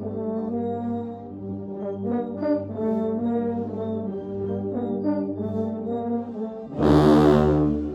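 Marching band brass section playing slow held chords, the notes changing every second or so. Near the end a louder, fuller chord comes in over a deep low-brass bass note.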